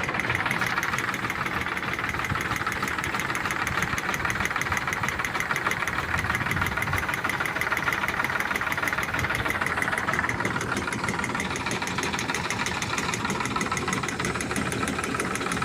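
Engine of a spray pump set running steadily at an even speed.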